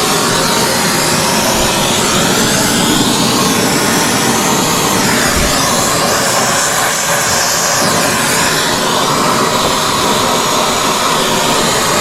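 Brazing torch flame hissing steadily while copper refrigerant line joints are brazed, its tone sweeping slowly up and down as the flame moves.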